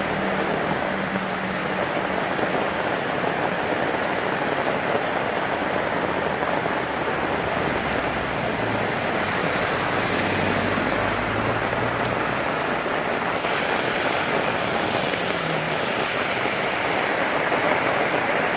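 Heavy rain falling steadily in a continuous hiss. A faint low vehicle engine hum fades in and out around the middle.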